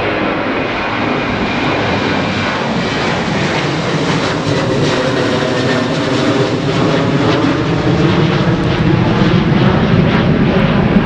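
Airliner engines running close by, growing steadily louder, with faint engine tones gliding slowly down in pitch.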